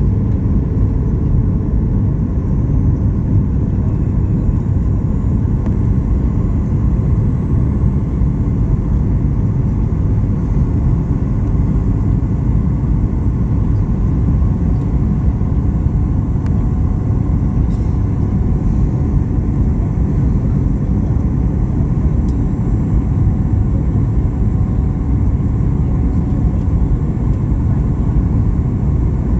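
Steady low vehicle rumble, unbroken throughout.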